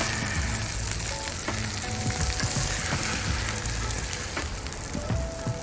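Chopped steak and onions sizzling steadily on a hot Blackstone flat-top steel griddle, with a metal spatula scraping under the meat and knocking against the griddle top a few times.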